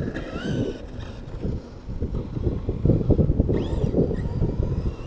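Wind buffeting the microphone, with the Arrma Notorious 6S BLX RC truck's brushless electric motor whining up and down in short throttle revs, once near the start and again about three and a half seconds in.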